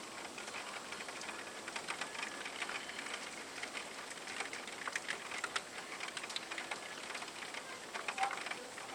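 Steady rain falling in a thunderstorm, with many sharp ticks of drops striking a hard surface close by.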